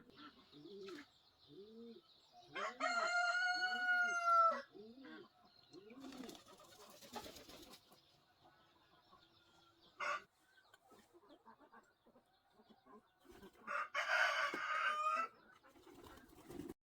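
A rooster crowing: one long, clear crow about three seconds in, and a second, harsher crow near the end. Hens cluck softly in between.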